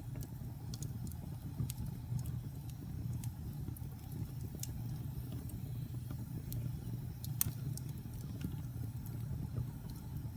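Wood fire burning in a fireplace: a steady low rumble of the flames, with scattered crackles and pops from the burning logs. The sharpest pop comes about seven seconds in.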